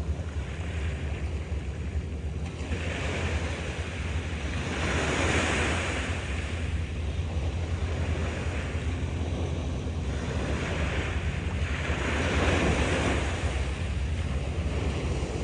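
Sea waves washing onto a sandy shore, the surf rising and falling in about four surges. A steady low rumble of wind on the microphone lies beneath.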